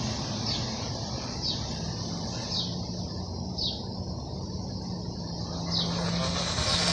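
A bird calling from the trees: a short, high, falling note repeated about once a second, with a gap of about two seconds before the last one. A low steady hum comes in about two seconds in and runs under it.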